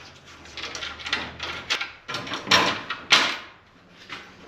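Clunks, knocks and scraping of wooden truck-bed boards and metal bed hardware being worked loose by hand, with several sharp knocks, the loudest about three seconds in.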